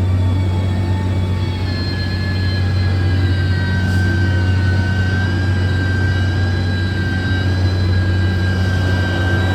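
Heavy earthmoving machine's diesel engine running steadily under load: a deep, constant hum with a steady high whine above it.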